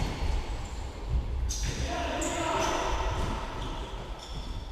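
Dull thuds of a football being kicked and bouncing, with players calling out, in a reverberant hall.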